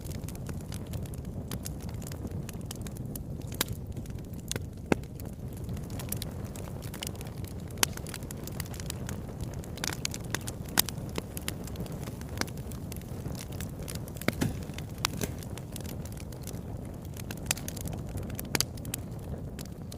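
Wood fire burning in a fireplace: a steady low rumble of flames with frequent irregular crackles and pops, a few of them sharper and louder.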